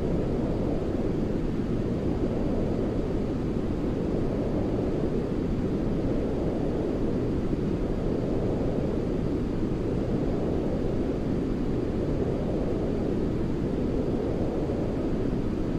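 Continuous sleep white noise, deep and rumbling, with most of its weight low like brown noise. It runs steadily, its brighter top edge easing up and down slowly.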